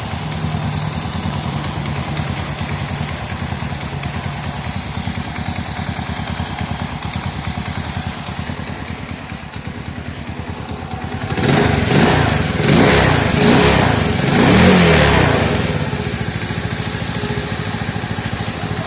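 110cc motorcycle engine idling steadily, then revved a few times from about eleven seconds in, the pitch rising and falling with each blip of the throttle, before settling back to idle.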